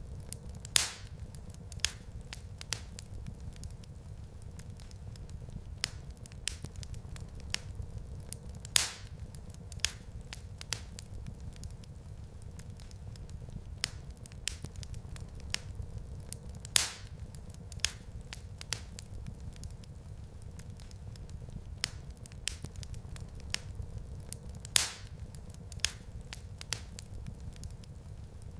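Wood fire crackling in a fireplace: a steady low rumble of flames with frequent sharp snaps and pops, and a louder pop about every eight seconds.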